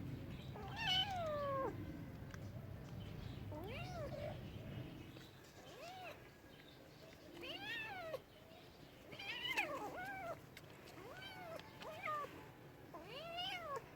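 Domestic cat meowing repeatedly: about eight or nine arching meows, one every second or two, the first one longer and sliding down in pitch.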